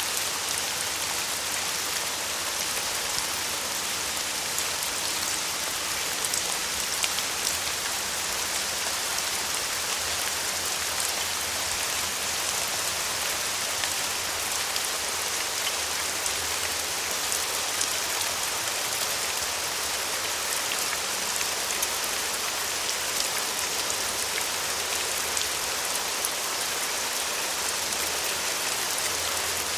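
Steady, even rain falling on a surface, with many fine drop ticks.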